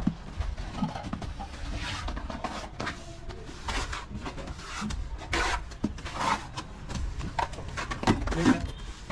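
Irregular scraping and rubbing strokes of a hand tool worked over a surface.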